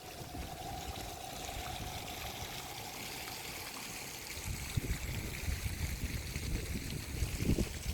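Running water, a steady trickling hiss like an outdoor stream, with irregular low rumbles joining in about halfway through.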